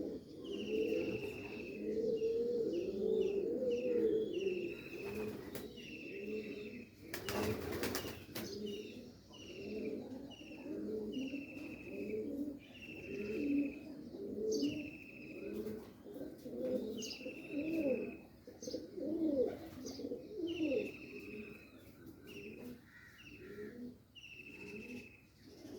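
Domestic pigeons cooing continuously, with short, high, falling chirps repeating about once a second over the cooing. A brief rustling burst comes about seven to eight seconds in.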